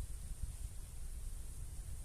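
Uneven low wind rumble on the microphone in the forest, with a faint steady high-pitched hiss above it.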